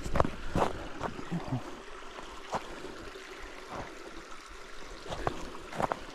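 A stream rushing steadily over rocks, with a few scattered short knocks and clicks.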